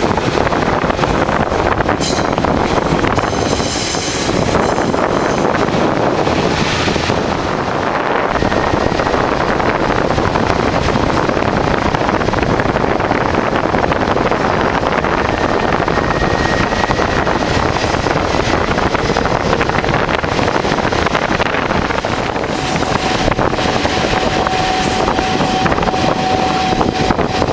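Train running along the track: a loud, steady rumble and rush of noise. A faint steady whine comes in near the end.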